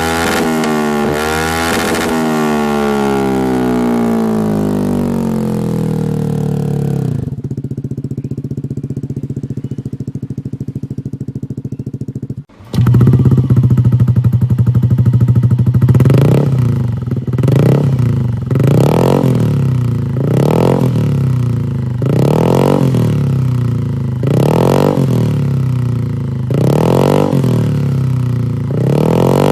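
Yamaha Aerox 155 scooter's single-cylinder four-stroke engine through an aftermarket exhaust: the revs fall back to a steady idle, then, after a sudden cut, the throttle is blipped over and over, about one rev every two seconds.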